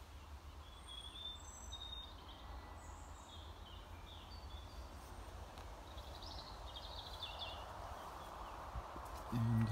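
Small birds chirping and singing in short, scattered phrases over a steady low background rumble.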